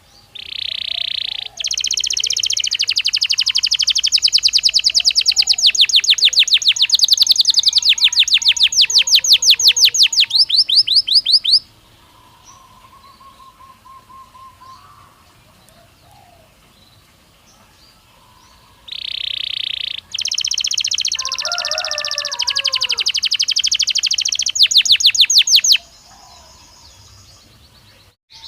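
Belgian canary singing: a long phrase of rapid, high trills that opens on a steady buzzy note, then after a pause of about seven seconds a second, shorter phrase of the same kind. Faint, softer chirps fill the pause.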